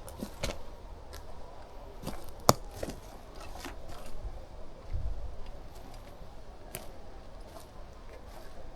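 Footsteps crunching over the forest floor of twigs and dry litter, with irregular crackles and one sharp twig snap about two and a half seconds in.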